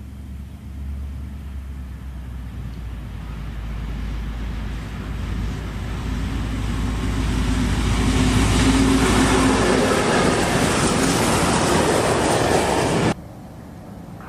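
Diesel locomotive hauling a freight train of covered hopper wagons, approaching and passing close by: the engine's low drone grows louder, then the wagons roll past on the rails, the loudest part. The sound cuts off suddenly about a second before the end.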